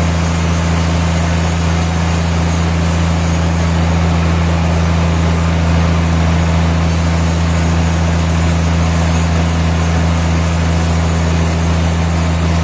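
Sawmill machinery running steadily: a loud, unchanging deep hum under a dense hiss, with no change in load.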